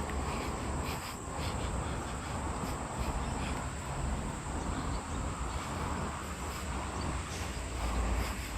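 Outdoor ambience: insects give a constant high-pitched drone, over a fluctuating low rumble of wind on the microphone.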